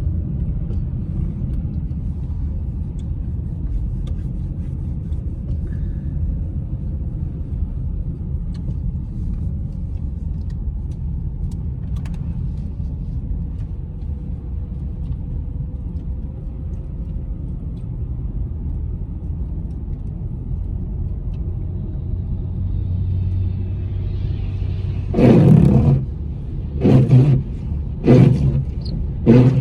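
Steady low rumble of a car driving, heard from inside the cabin. Near the end come four loud, short bursts of noise about a second apart.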